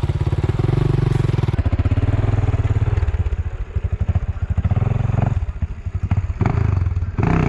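A 450cc four-stroke motocross bike's single-cylinder engine running close by, its throttle opening and closing so the engine note rises and falls, with several short revs in the second half.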